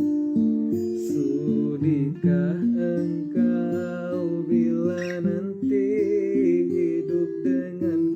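Acoustic guitar playing strummed chords in a song, with a higher wavering melody line over the chords from about one and a half seconds in to past the middle.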